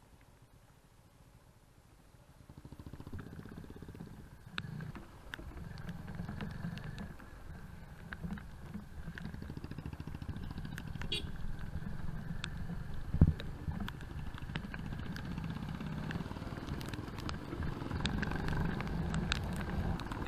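Motorcycle engine running on the move. It comes in about two seconds in and grows louder, with scattered knocks and one louder thump about two-thirds of the way through.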